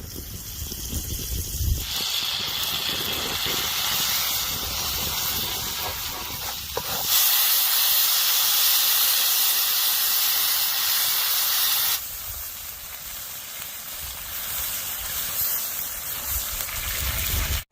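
A steady hiss of rushing noise that changes abruptly in level and tone three times; it is loudest and brightest for about five seconds in the middle.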